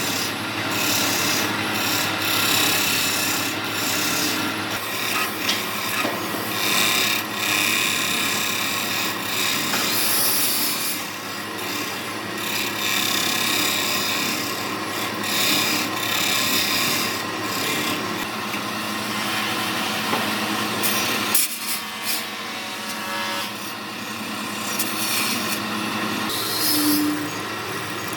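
Wood lathe turning a wood-and-epoxy blank, a tool scraping and cutting the spinning piece in a steady rasping noise over a low motor hum. The noise dips briefly a little over twenty seconds in.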